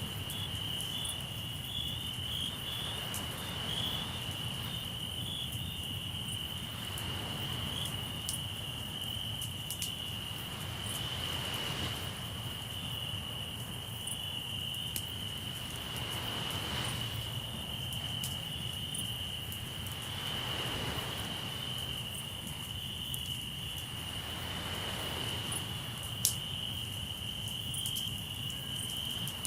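Crickets trilling steadily in one unbroken high chorus, with waves washing in every four to five seconds underneath. A campfire crackles with small scattered clicks and gives one louder pop near the end.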